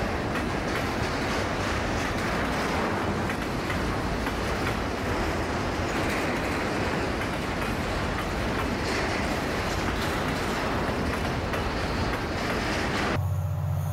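Diesel-hauled freight train rolling past, a steady dense rumble of wheels on rail with faint clacks. Near the end the sound cuts abruptly to a steady low hum.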